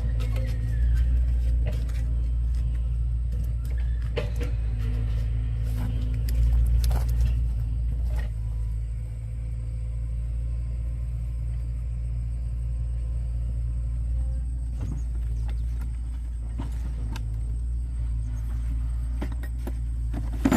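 A steady low motor rumble with scattered clicks and knocks.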